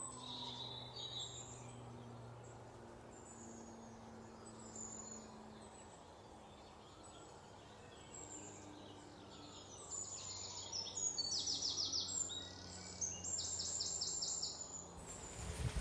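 Birds calling with scattered short chirps. From about ten seconds in, a bird repeats quick trilled phrases over a faint background hum.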